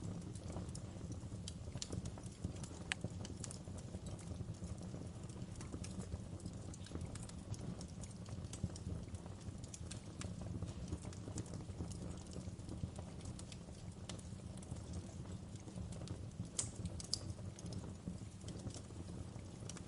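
Wood fire burning with a steady low rumble and frequent irregular crackles and small pops, with a couple of sharper pops near the end.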